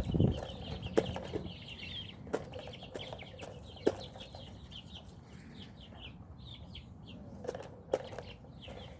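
Chickens in a pen: a short burst of wing flapping right at the start, then scattered sharp taps under repeated high chirping.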